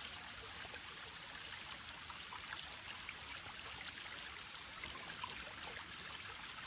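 Shallow creek water running over rocks: a steady rush with small scattered trickles and splashes.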